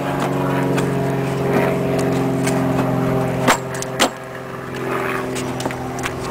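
A vehicle engine idling with a steady hum, and sharp clicks as a plastic headlight housing is pushed into place, the loudest two about three and a half and four seconds in.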